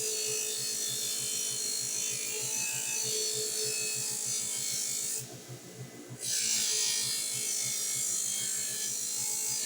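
Knife blade being polished on a motorized cloth buffing wheel charged with green buffing compound, to take off the burr left by the 1000-grit stone. A steady motor hum runs under a loud hiss of the blade against the wheel; the hiss drops out for about a second midway while the motor keeps running.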